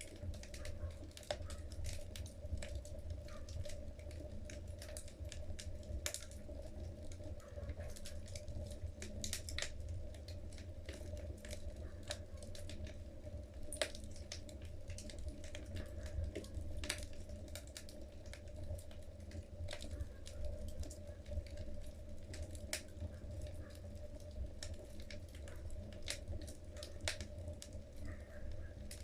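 Wood fire burning in a fireplace: logs crackling and popping irregularly, many sharp snaps, over a steady low rumble.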